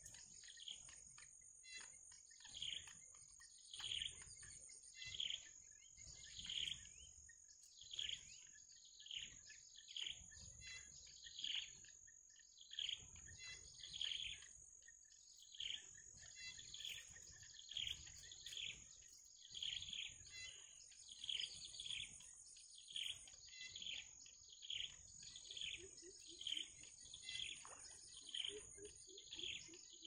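A bird repeating short, downward-sweeping chirps about once a second, over the steady high drone of insects.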